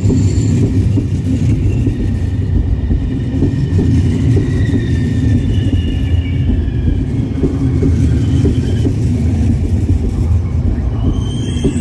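Double-deck Trenitalia regional electric train running past close by on the adjacent track: a steady, loud rumble of wheels on rail, with faint high whining tones above it.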